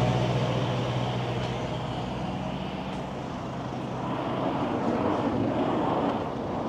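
A vehicle engine's steady hum with road noise, fading out over the first few seconds; a little later the traffic-like noise swells again.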